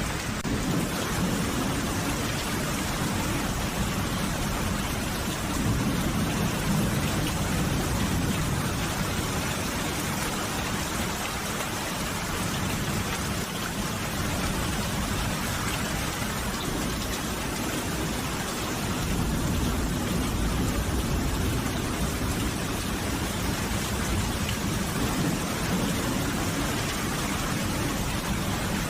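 Steady heavy rain falling, with low thunder rumbling up twice.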